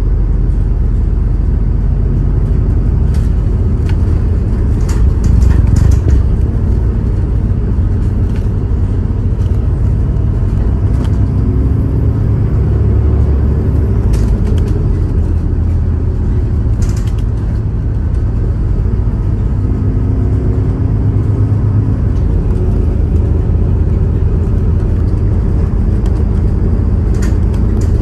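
Suburban electric train running, a steady loud rumble with occasional brief clicks and hisses from the wheels and track.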